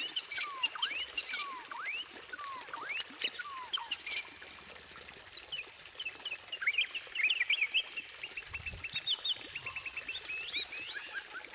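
White-rumped shama singing: a varied song of slurred falling whistles repeated about once every second, mixed with sharp clicking notes, then a quicker run of short notes and high rising trills in the second half.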